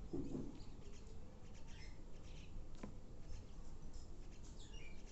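Pet parrot making faint soft chirps and scattered small clicks, with one sharper click about three seconds in.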